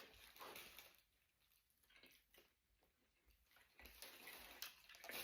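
Faint chewing and mouth sounds of someone eating a doner kebab, a few soft wet clicks over near silence, getting a little louder near the end.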